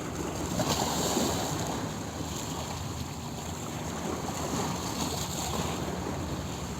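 Sea waves washing in a steady rush of surf, with a slight swell about a second in.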